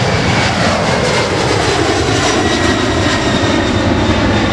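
Boeing 767-300ER's twin GE CF6 turbofans at takeoff power: a loud, steady roar with high whining tones and a tone that glides down in pitch over the first three seconds as the airliner goes by.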